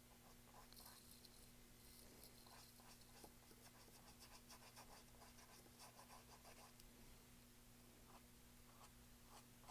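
Faint, irregular scratching of a paintbrush stroking acrylic paint onto a canvas, over a steady low hum.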